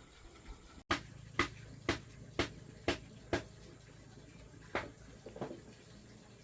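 Six sharp knocks, evenly spaced about two a second, then two more knocks after a pause of over a second.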